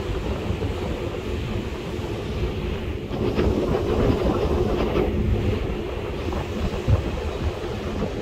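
Steady low rumble on board a ferry under way, the drone of the ship's engines mixed with wind noise, swelling a little in the middle.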